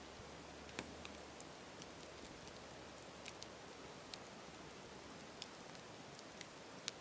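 Campfire crackling: a steady soft hiss with irregular sharp pops and snaps, the loudest about a second in and again near the end.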